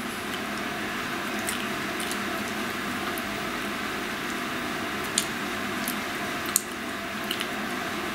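A person chewing meat with the mouth closed, a few short wet clicks over a steady hiss.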